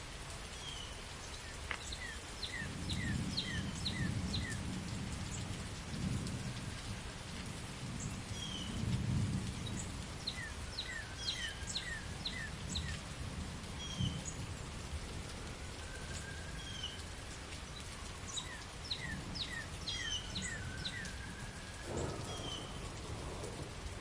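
Steady rain with low rumbles of thunder swelling through the first half, while birds chirp in quick repeated phrases over it.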